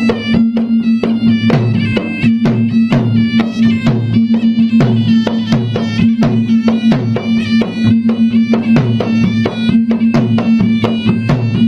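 Traditional Makassar gendang ensemble: gendang drums beating a fast, dense rhythm under a reedy wind melody and a steady low drone.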